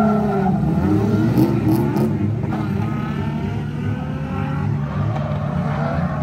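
Drift car engines running with a steady low rumble, the revs rising and falling several times.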